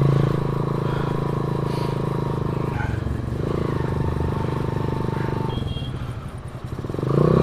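Hero Honda CD 100 single-cylinder four-stroke motorcycle engine, mounted on a BMX bicycle, running steadily. It grows quieter around six seconds in, then comes back louder near the end.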